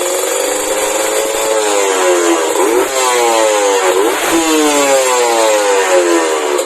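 Two-stroke Kawasaki Ninja 150 engine running through a WRS aftermarket exhaust and being revved: the pitch jumps sharply up twice, then falls back slowly each time.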